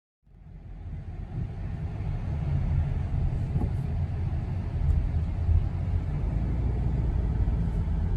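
Steady low rumble of a car driving, fading in over the first couple of seconds and then holding level.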